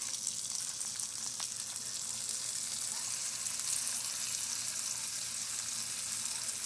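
Marinated chicken skewers sizzling steadily in hot oil in a nonstick frying pan as they start to pan-sear.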